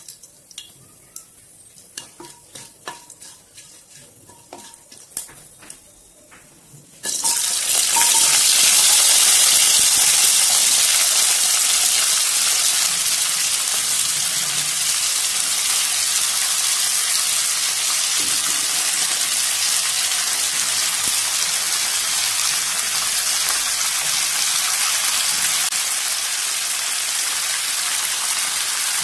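Vegetables frying in hot oil in a nonstick kadai: a few faint clicks and crackles at first, then about seven seconds in a loud, steady sizzle starts as cubed potato and radish go into the oil, and it carries on.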